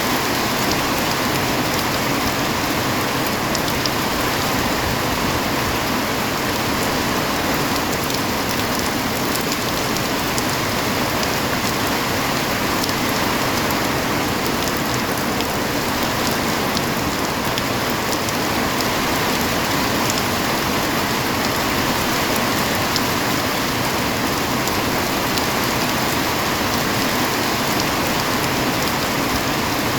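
Heavy rain falling steadily: an even, unbroken hiss with fine scattered ticks of drops striking surfaces.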